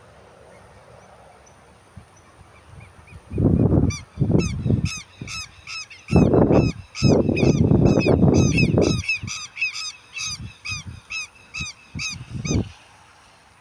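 A bird calling in a rapid series of short, repeated calls, about three or four a second, for roughly ten seconds. Loud low bursts of noise come in between.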